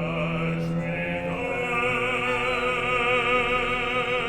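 Operatic singing: a trained voice holds a long note with wide vibrato. A steady lower accompanying note sounds under it for the first second or so, then stops.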